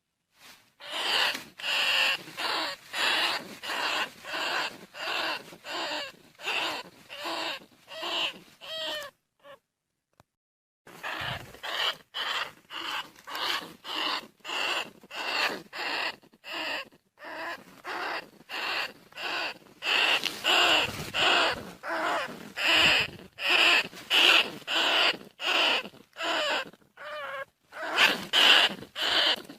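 Bandicoot rat calls: a quick series of short squeals, about two a second, with a break of a second or so about a third of the way in. A recorded call of the kind played to lure field rats.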